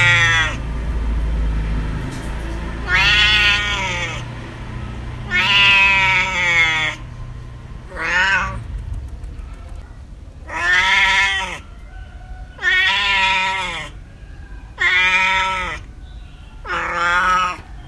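A cat meowing over and over: about eight separate drawn-out meows, each rising and then falling in pitch, coming roughly every two seconds.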